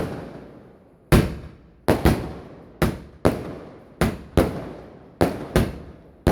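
A 120-shot multi-shot fireworks cake firing: about nine sharp bangs in quick, uneven succession, some in close pairs, each trailing off before the next.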